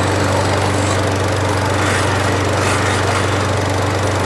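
Push mower's 140cc Powermore single-cylinder engine running steadily at speed, spinning a freshly sharpened and balanced blade.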